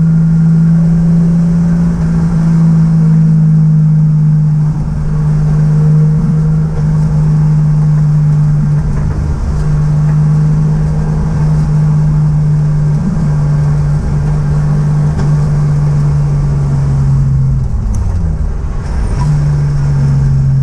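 Toyota 2JZ inline-six in a BMW E30, heard from inside the poorly insulated cabin while driving: a loud, steady exhaust drone through the 3-inch stainless custom exhaust. Near the end the pitch drops briefly, then comes back up.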